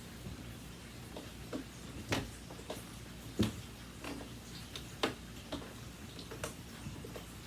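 Irregular light clicks and knocks as the power cord of an Aeros upright vacuum cleaner is wound up around its plastic body, the plug and cord tapping the housing; the sharpest knocks come about two, three and a half, and five seconds in.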